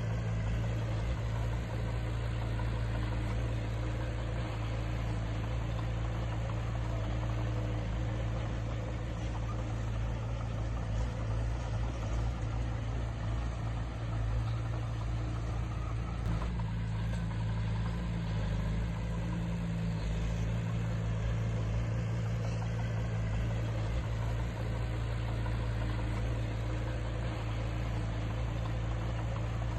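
Heavy diesel engine of earthmoving equipment running steadily with a low, even drone.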